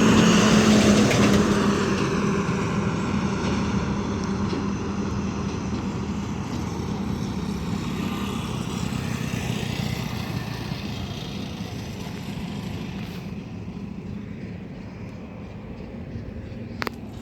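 Truck engine drone, loudest just as the truck passes at the start, then fading steadily as it drives away; a brief sharp click near the end.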